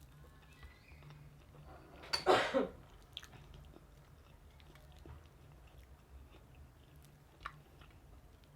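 A crunchy bite into crispy, double-fried chicken close to the microphone: one loud crackling crunch about two seconds in, then quiet chewing with a few small clicks.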